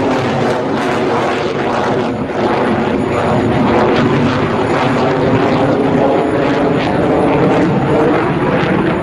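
JF-17 Thunder fighter's single Klimov RD-93 turbofan engine, loud and steady, with a slight dip about two seconds in.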